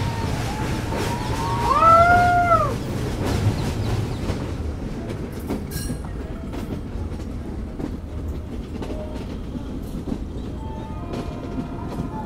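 Meter-gauge train running with a steady rumble and wheels clicking over rail joints. About two seconds in, a short horn blast rises and falls in pitch; it is the loudest sound.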